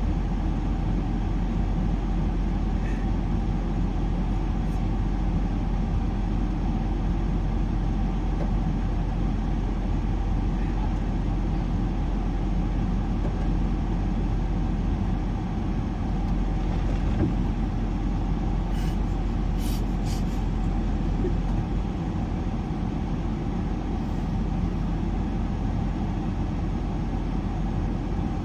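Ford Edge SUV driving, with a steady rumble of road and engine noise. A few light clicks come about twenty seconds in.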